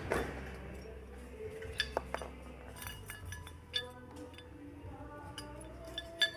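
Metal objects clinking and tapping together: a dozen or so irregular sharp clinks, several ringing briefly, over a steady low hum.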